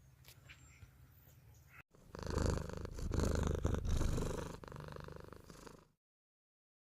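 A cat purring close to the microphone for about four seconds, a steady rapid low rumble that starts after a sudden cut and then stops dead.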